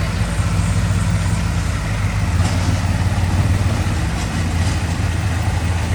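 Heavy diesel earthmoving machinery, a dump truck or bulldozer, running steadily at a low, even engine speed.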